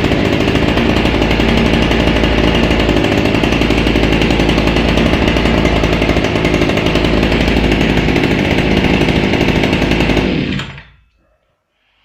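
Small two-stroke brushcutter engine of a newly assembled TATRA outboard motor, running steadily. It is shut off about ten seconds in and dies away quickly to silence.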